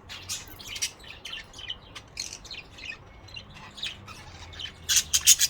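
Pet budgerigars chirping and chattering in quick, high calls, with a louder burst of sharp calls near the end.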